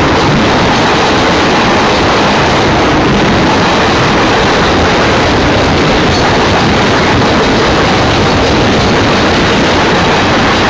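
Union Pacific freight cars rolling past at close range: a loud, steady rumble and rattle of wheels on rail.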